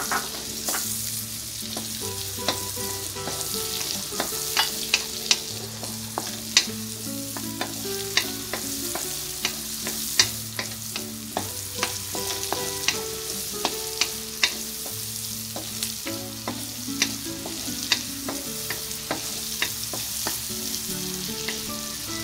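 Chopped garlic and onion sizzling in melted butter in a nonstick wok, stirred with a wooden spoon that knocks and scrapes against the pan many times.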